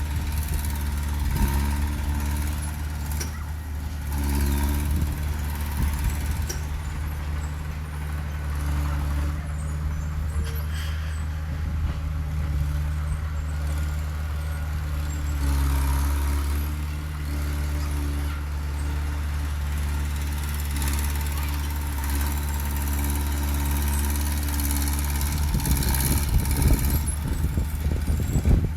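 Heavy diesel earthmoving engine running steadily at a low pitch, with rattling and clanking getting louder in the last few seconds.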